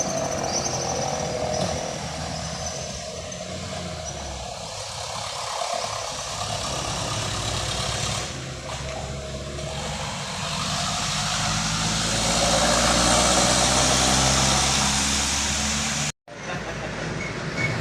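Heavy truck's diesel engine pulling up a steep climb, with tyre and road noise. The sound grows louder as the truck comes past, then cuts out abruptly for a moment near the end and resumes.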